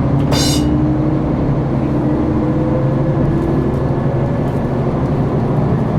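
KiHa 261 series diesel railcar's engine under power, heard from inside the passenger car: a steady low rumble with a drone that rises slowly in pitch as the train accelerates. A brief high-pitched sound cuts in about half a second in.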